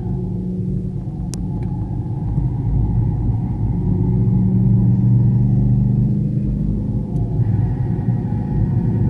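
Car engine running hard at track speed with a heavy low rumble. It grows louder from about two seconds in, eases briefly around six seconds, then pulls again.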